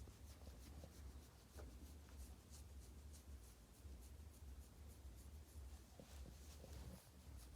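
Faint, irregular scratchy rustling and rubbing from a Boston terrier stirring, with a low steady rumble beneath.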